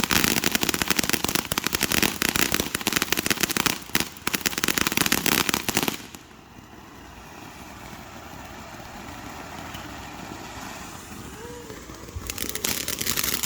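Fireworks crackling: a dense, rapid run of many small pops. It falls away to a quiet background for about six seconds in the middle, then starts again near the end.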